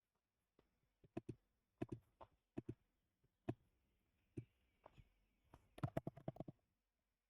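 Faint, scattered clicks of a computer mouse and keyboard, with a quick run of clicks about six seconds in.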